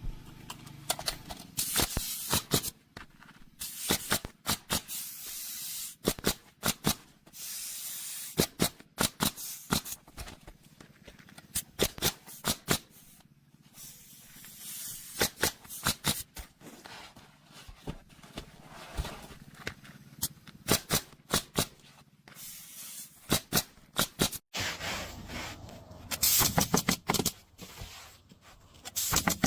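Irregular sharp clicks and knocks, mixed with repeated bursts of hissing noise, from work going on at a building site.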